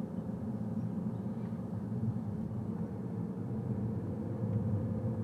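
Car driving along: steady low engine and road rumble.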